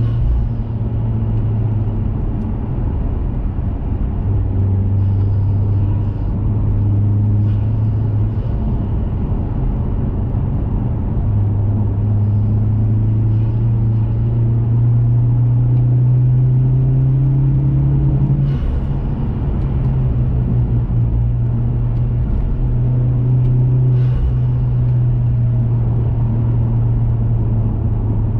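2021 Mazda 3 Turbo's turbocharged 2.5-litre four-cylinder engine, heard through a CorkSport cat-back exhaust, running at steady cruising revs. The note climbs slowly, drops sharply in pitch about two-thirds of the way through, then holds steady again.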